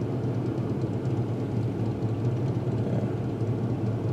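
Steady low hum of a car's engine and road noise heard from inside the cabin while driving.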